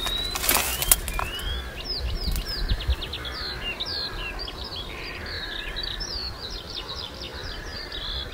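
Birds singing outdoors, a run of short chirps and quick rising and falling call notes that keeps going, over a low background rumble. A brief rush of noise comes just under a second in.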